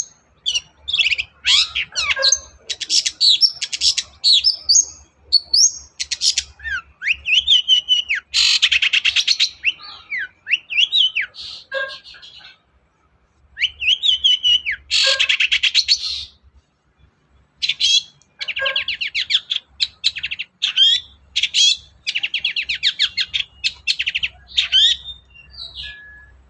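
Long-tailed shrike (cendet) singing a loud, varied song of harsh rasping bursts, fast trills and slurred whistled notes, with a brief pause about halfway. The song is full of mimicked calls of other birds.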